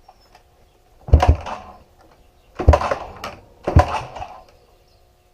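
Three heavy thumps, the second and third about a second apart, each trailing off within about half a second, over a faint steady hum.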